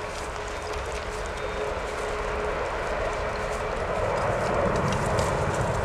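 Airbus A330 airliner's twin Rolls-Royce Trent 700 jet engines at take-off power: a steady jet noise with a faint steady whine, growing louder with a deepening rumble in the second half.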